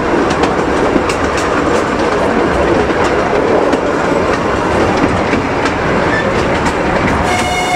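Miniature railway coach running along the track: a steady rumble with the clickety-clack of the wheels over rail joints, about two clicks a second. Near the end the train's horn starts to sound, a steady multi-tone note.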